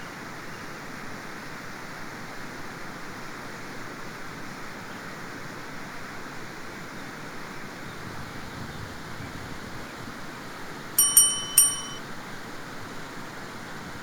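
Steady outdoor background noise, with two sharp ringing metallic clinks about half a second apart near the end.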